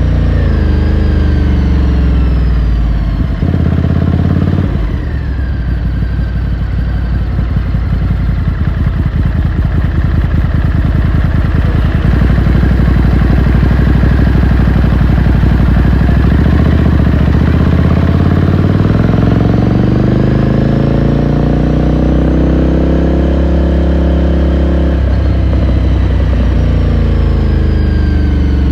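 Ducati Scrambler Sixty2's air-cooled L-twin engine heard onboard while riding: the engine note falls as the bike slows, runs steady at low revs, then climbs for several seconds under acceleration before dropping sharply at a gear change near the end.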